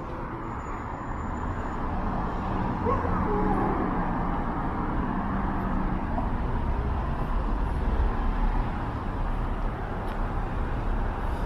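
Steady road traffic noise: cars and engines running past on the street.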